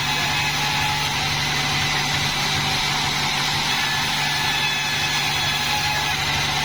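Sawmill machinery running steadily, a constant hum with faint high whining tones and no change in speed.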